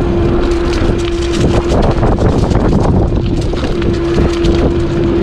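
E-bike drive motor whining with a steady tone under pedal assist; it cuts out for about two seconds in the middle and then comes back. Under it, tyres crackle over dry leaves and wind rumbles on the microphone.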